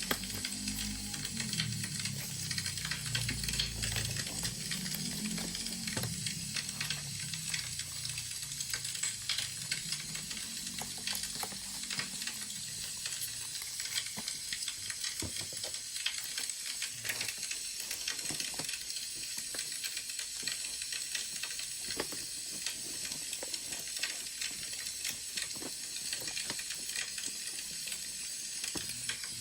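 Wood fire crackling: a steady hiss with scattered small pops and snaps. A soft low rumble runs under it for the first dozen seconds.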